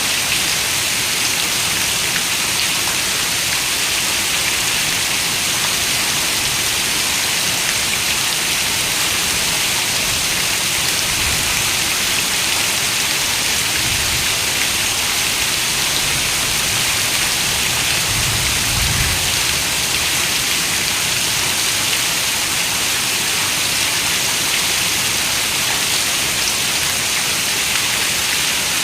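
Steady rain falling, a dense even hiss without pauses, with a few faint low swells in the middle.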